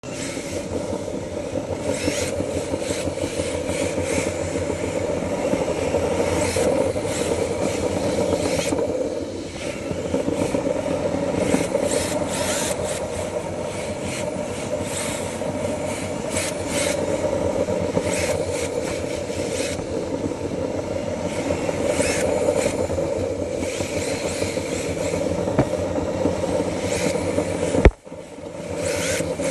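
RC drift cars sliding, their hard tyres scraping and rubbing on the track surface over the steady hum of their motors. A sharp click near the end is followed by a brief drop in sound.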